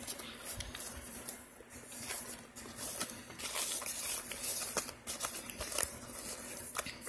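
Hard chunks of Argo laundry starch clicking and rustling against each other and the powdery starch as they are rummaged through by hand, with many small sharp clicks.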